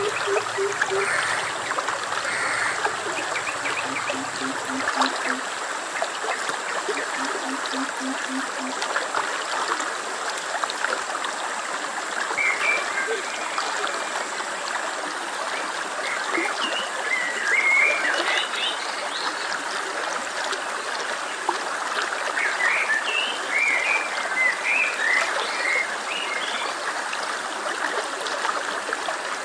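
Stream water running steadily, with scattered short high chirps, likely birds, through the second half. In the first few seconds there are a few short runs of low repeated calls, four or five pulses each.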